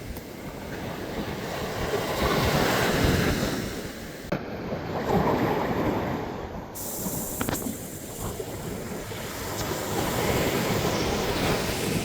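Ocean surf: waves breaking and washing up the shore, swelling and fading in three slow surges.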